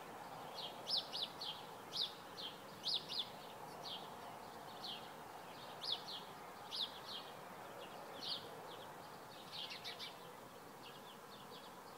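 Birds chirping: short, high chirps in quick clusters through the whole stretch, over a steady background hum of outdoor ambience.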